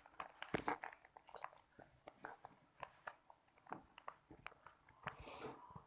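Sticky glue-and-soap slime mixture being stirred in a container, making irregular wet clicks and squelches as it starts to clump. A brief hiss about five seconds in.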